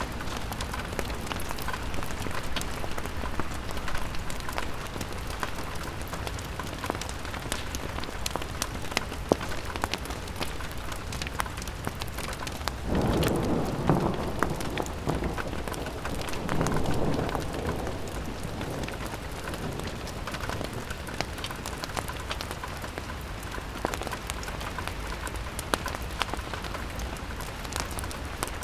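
Rain pattering steadily on a window, with small pops and crackles from a fireplace. About halfway through, a low rumble swells up twice in quick succession.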